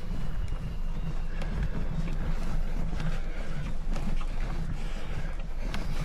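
Bicycle climbing uphill, heard as a steady low wind rumble on the microphone with scattered light clicks and ticks from the ride.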